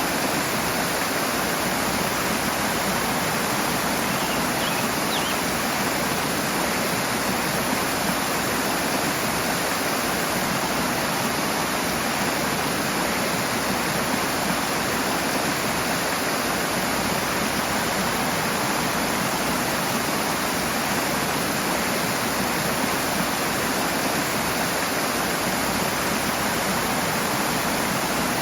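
Rushing water: a stream or cascade pouring steadily, a dense, even rush with no pauses.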